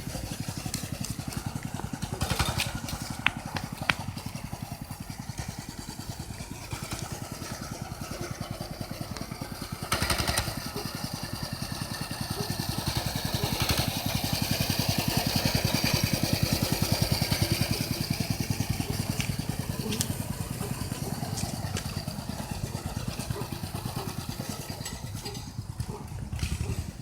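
Coleman CT200U mini bike's small single-cylinder engine running as the bike is ridden around, growing louder about ten seconds in and fading again after the middle as it comes nearer and moves away.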